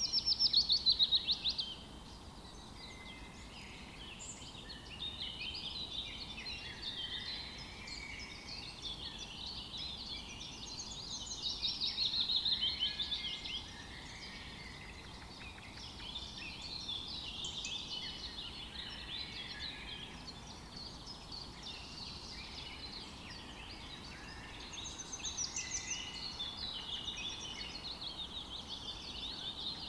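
Several songbirds singing and calling at once, overlapping chirps and trills, with louder bursts of song near the start, about twelve seconds in and about twenty-five seconds in.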